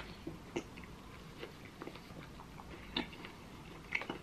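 A person chewing a mouthful of chicken balti curry: soft, scattered wet mouth clicks. Near the end a sharper click as the metal spoon goes back into the curry tray.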